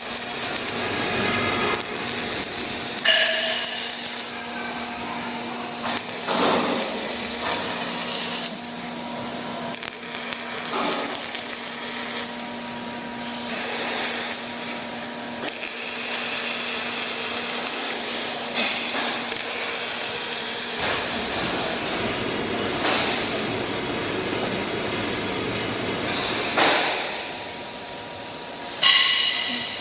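Welding-shop noise in short edited cuts that change every few seconds: hissing, crackling arc-welding noise alternating with machine and tool sounds, with a steady hum under much of it.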